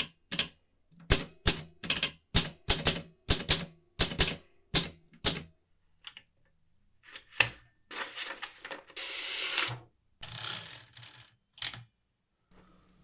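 Restored 1949 Olympia manual typewriter being typed on: a run of sharp key strikes, about two to three a second, for some five seconds. Then come a few single strokes and two longer rasping mechanical sounds in the second half.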